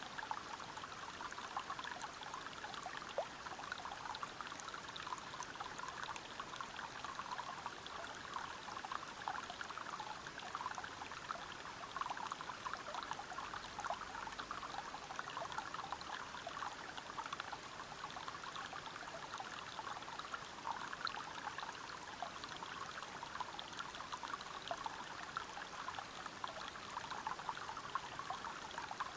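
River water flowing and splashing over rocks: a steady rush, flecked with many small splashes, that does not change.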